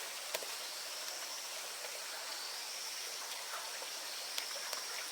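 Steady outdoor background hiss with a high, even tone running through it and a few faint clicks.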